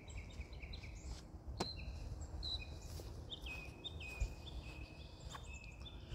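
Small birds chirping and calling over a low, steady outdoor rumble, with a couple of faint clicks and a brief low bump about four seconds in.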